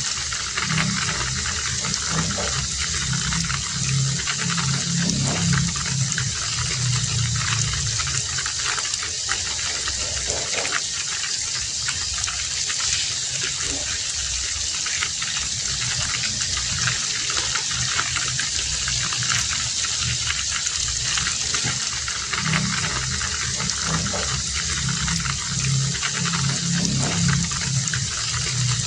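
Heavy rain falling steadily, with a low rumble that swells for several seconds near the start and again near the end.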